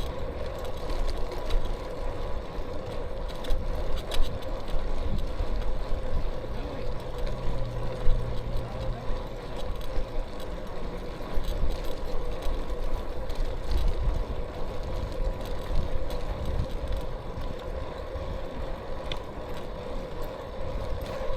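Wind rushing over the microphone and road noise from a bicycle ride, with a steady whine throughout and a few small knocks.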